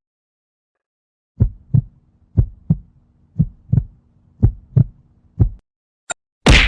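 Heartbeat sound effect: about five low lub-dub double thumps, roughly one a second, over a faint low hum. Near the end a short click and a loud, sharp noisy hit follow.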